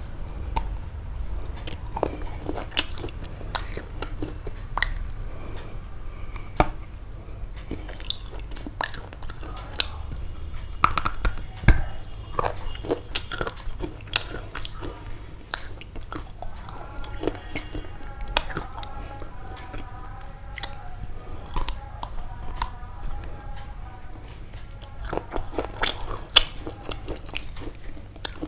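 Close-up crunching and chewing: many crisp, irregular bites and clicks in quick succession, like crunchy food being eaten near the microphone.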